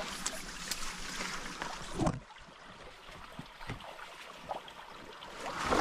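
Stream water running and trickling, with a single soft knock about two seconds in, after which the water is quieter.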